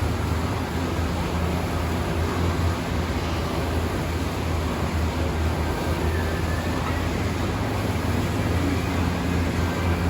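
An engine running steadily: a constant low drone with even noise over it, no change in speed.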